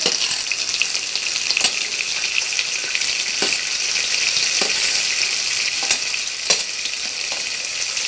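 Sliced onions sizzling as they drop into hot oil in an aluminium pressure cooker, a steady frying hiss, with a few sharp clinks of a steel spoon scraping the steel plate.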